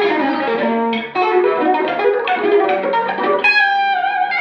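Electric guitar on humbucker pickups playing a quick single-note lead line, with the Verve Sound Rise's clean booster switched off, then holding one sustained note from about three and a half seconds in.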